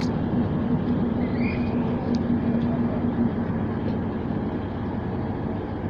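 Class 185 diesel multiple unit's engine running with a steady hum over a low rumble; the hum stops about three seconds in and the sound eases off a little.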